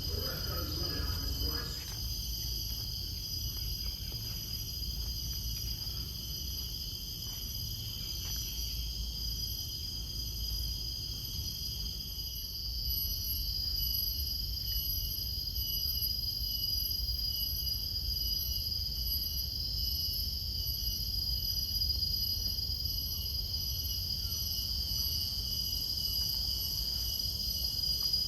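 Chorus of forest insects: a steady, high-pitched drone in several overlapping tones, growing a little louder about halfway through, over a low rumble.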